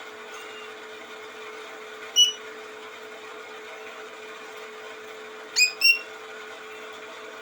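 A songbird gives short, sharp chirps: one about two seconds in, then two in quick succession near the end, over a steady background hum.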